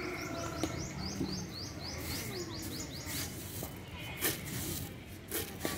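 A small bird calling a rapid run of short, high, falling notes, about four a second, which stop about three seconds in. Then a few sharp knocks come from a plastic bucket being handled.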